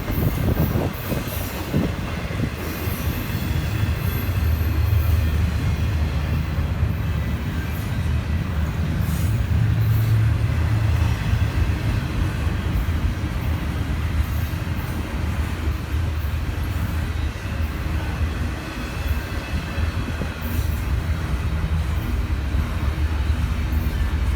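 Train rolling by on the rails: a steady low rumble of the wheels and cars, with brief sharp high-pitched sounds now and then.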